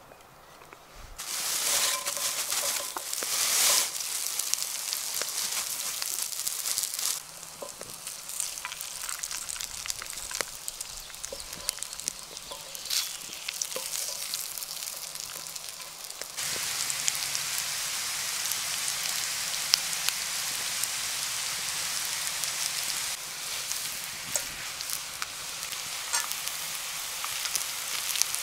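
Food frying in a black steel frying pan over a wood fire: first butter, then chips and battered fish, sizzling steadily with scattered sharp crackles. The sizzle starts about a second in.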